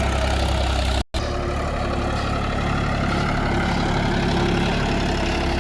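Mahindra 275 DI TU XP Plus tractor's three-cylinder diesel engine running steadily at idle, with a brief total cut-out about a second in before it carries on.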